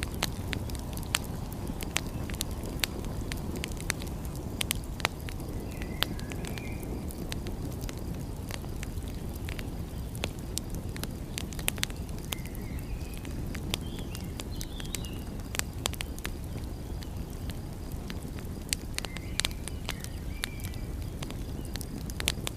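Wood fire crackling, with frequent sharp pops and snaps over a steady low rumble. A few faint short chirps come through now and then.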